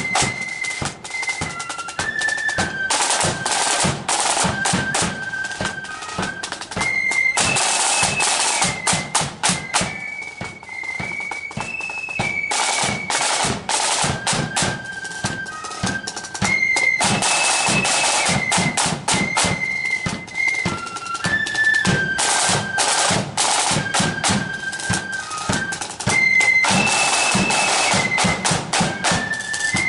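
Marching flute band playing: flutes carry a high, stepping tune over rapid snare drum strokes and bass drum beats. The tune repeats in phrases, with a louder snare roll about every ten seconds.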